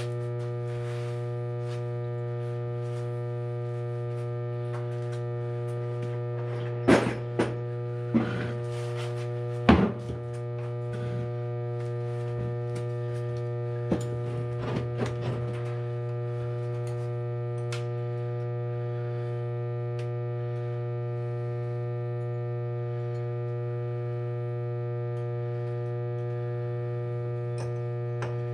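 A steady electrical hum, with a few sharp knocks about seven to ten seconds in and some lighter clinks around fifteen seconds, typical of engine parts and tools being handled on a bench.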